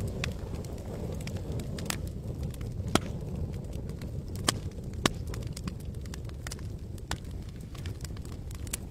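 Wood campfire crackling, with irregular sharp pops and snaps over a steady low rumble; three louder pops stand out about 3, 4.5 and 5 seconds in.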